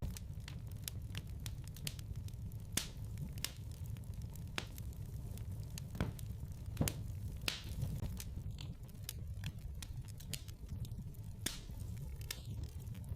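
Wood fire burning in a fireplace: irregular sharp crackles and pops over a low steady rumble.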